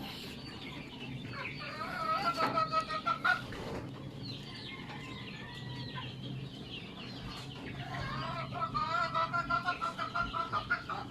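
Native chickens clucking in quick runs: a burst about a second and a half in, and a longer run from about eight seconds in.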